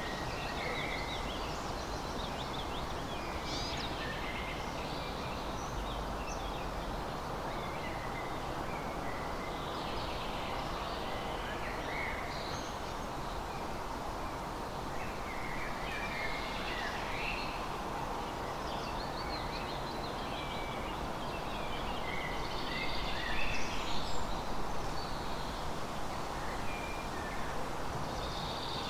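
Songbirds chirping and trilling now and then over a steady rushing background noise, a little louder about three-quarters of the way through.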